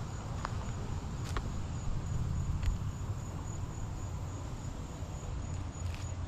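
An insect calling in a high, steady pulsing trill, the pulses evenly spaced. Under it, a low rumble of wind on the microphone, with a few faint clicks.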